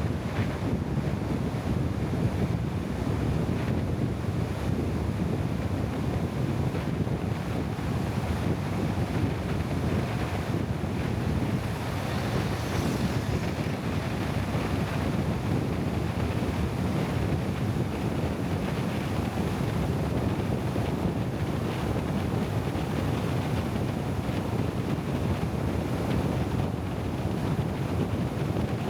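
Steady rushing wind noise on the microphone over a low rumble, with no distinct events.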